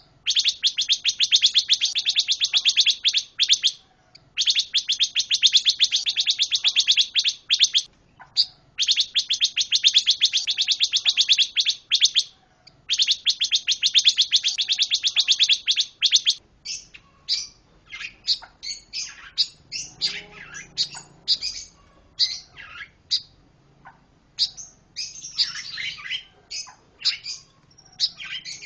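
Pancawarna songbird singing: four long, fast, high trills of a few seconds each, separated by short pauses, followed in the second half by a varied run of separate chirps and quick sweeping notes.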